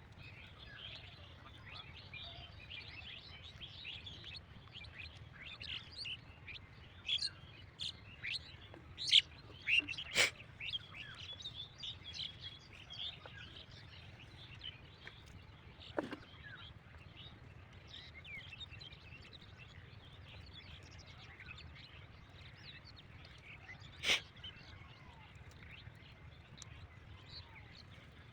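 Small birds chirping, with many short, quick calls, busiest around the middle. A few sharp knocks stand out about ten, sixteen and twenty-four seconds in.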